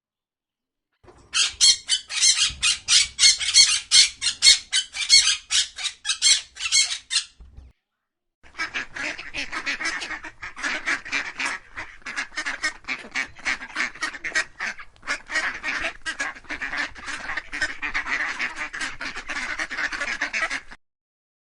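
Waterfowl calling in fast, repeated honks and quacks. A high run of calls comes first, then, after a short pause about halfway through, a longer and denser run.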